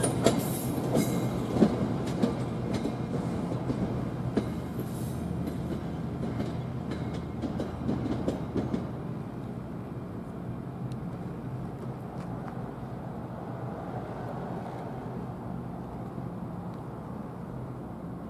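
NJ Transit Arrow III electric multiple-unit train rolling over the yard tracks, its wheels clicking over rail joints and switches as the sound fades away. The clicks die out about halfway through, leaving a steady low hum.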